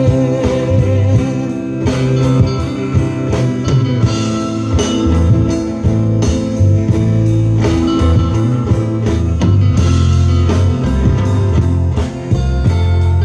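Live band playing an instrumental passage between sung verses: guitar over bass and a drum kit keeping a steady beat.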